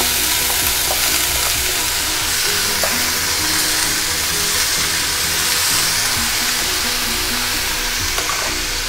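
Chopped banana stem (vazhaithandu) cubes sizzling steadily in hot oil in a steel kadai, just tipped onto a tempering of mustard seeds, urad dal, cumin and curry leaves, with a few faint clicks as they are stirred.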